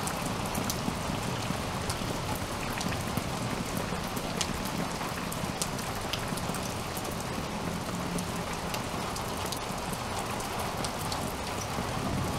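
Steady rain falling, with frequent sharp clicks of drops striking close by.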